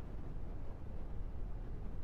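Steady low background rumble with a faint hiss, unchanging throughout.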